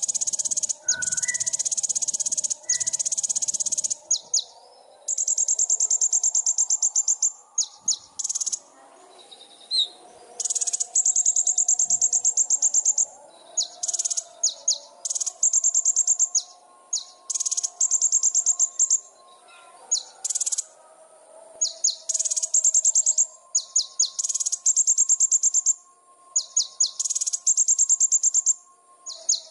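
Small songbird singing very fast, high buzzy trills in repeated bouts of a second or two with short pauses between: a tutor-song recording used to train cage birds.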